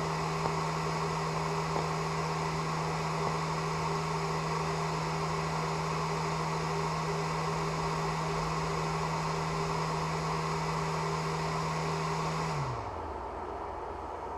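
A woodshop machine motor running with a steady hum and hiss, then switched off about 13 seconds in, its hum quickly falling away.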